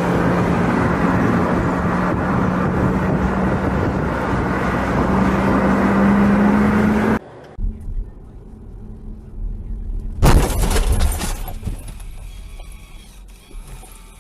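Car engine and road noise with a steady hum that rises slightly, cut off abruptly about seven seconds in. After a quieter stretch, a sudden loud bang comes about ten seconds in and dies away over a few seconds.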